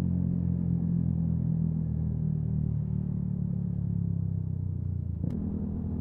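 Yamaha MT-125's single-cylinder 125 cc engine running at a steady, even pace under way. About five seconds in there is a sharp click, and the engine note shifts straight after it.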